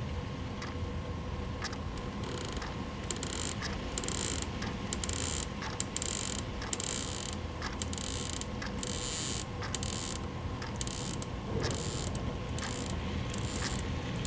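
Steady mechanical ticking, about three ticks every two seconds, over a low rumbling ambience. From about two seconds in, irregular bursts of high hiss come and go.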